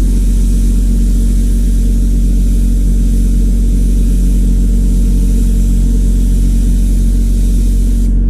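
Water spraying with a steady hiss over a steady low machine hum while an air conditioner condenser coil is cleaned. The spray cuts off just before the end while the hum keeps going.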